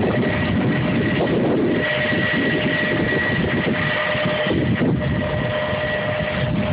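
Steady aircraft turbine noise: a constant high whine over an even rushing noise.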